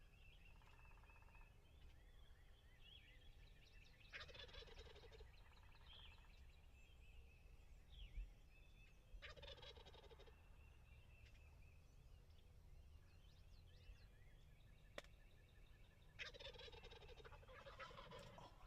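Wild turkey gobbler gobbling three times, each gobble a rapid rattling call of about one to two seconds, spaced roughly five to seven seconds apart.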